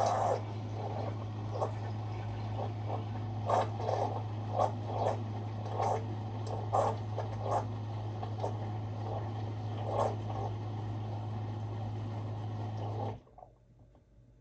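Bosch dishwasher's drain pump humming steadily while water gurgles and splashes irregularly as it is pumped out, with the door open; the pump cuts off suddenly near the end.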